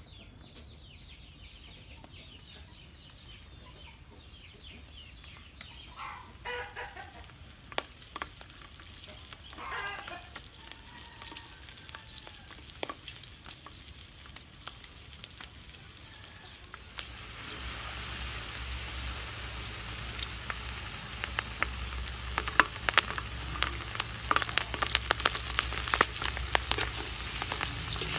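Flour-coated chicken feet frying in hot oil in a wok, sizzling with dense crackling and popping that gets much louder a little past halfway, as more pieces go into the oil.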